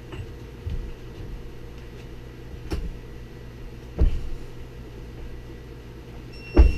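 Four separate knocks and clunks from differential parts and tools being handled, the loudest near the end with a brief ring, over a steady low hum.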